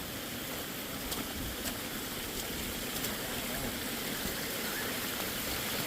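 Steady hiss of rain and running water in a forest, with a few faint irregular taps.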